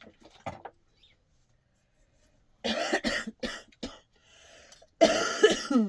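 A person coughing in two fits, a cluster of short coughs about two and a half seconds in and a louder fit near the end.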